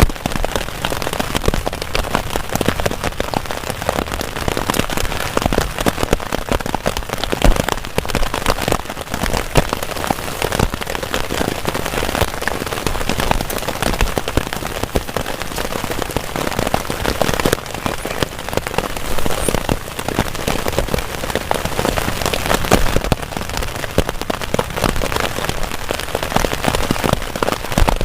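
Heavy rain falling on a camping tarp: a steady, dense patter of sharp drop hits over a continuous rush of rain.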